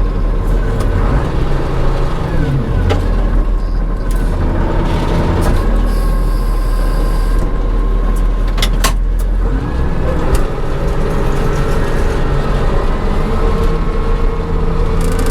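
John Deere 544C wheel loader's diesel engine running while working, its note falling and rising several times, with a few sharp knocks about three and nine seconds in.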